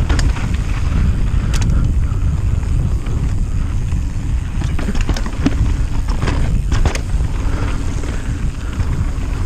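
Mountain bike rolling fast down a rough dirt trail, with tyre rumble and wind buffeting the action-camera microphone. Several sharp clacks and rattles from the bike as it hits bumps.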